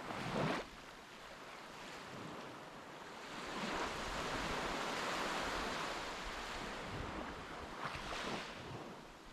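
Sea waves washing with wind buffeting the microphone: a short loud gust just after the start, then a longer swell of surf in the middle.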